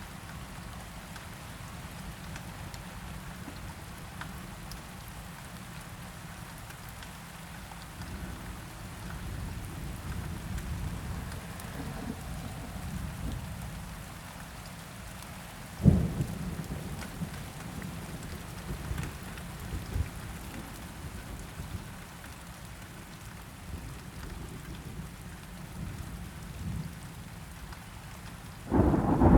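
Steady rain falling, with low thunder rumbling underneath. About halfway through a sharp thunderclap cracks and rolls off, and a louder peal of thunder breaks in just before the end.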